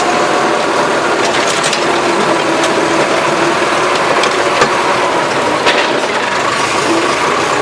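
Massey Ferguson tractor running steadily while working the soil, with a handful of sharp clanks and knocks from the machinery scattered through the sound.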